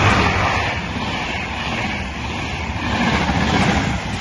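Intercity passenger train passing close at speed: the electric locomotive goes by loudest at the start, then the coaches follow with a steady rush and rumble of wheels on the rails.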